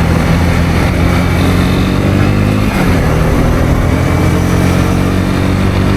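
Honda CB250R's single-cylinder engine running steadily under way, with a brief break in the engine note about three seconds in, after which it settles at a slightly higher pitch.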